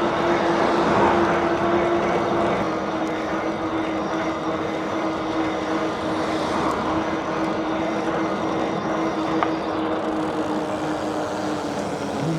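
An e-bike's electric motor giving a steady hum while riding, its pitch dipping slightly a couple of times as the speed changes, over rushing wind and tyre noise.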